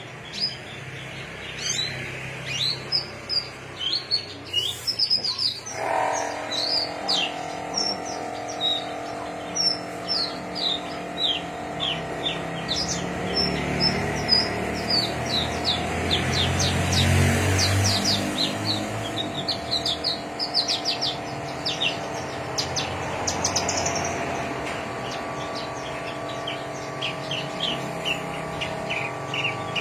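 A songbird singing a long, fast run of short chirps and whistled notes. From about six seconds in a steady hum of several held tones runs underneath it, and a low rumble swells up and fades around the middle.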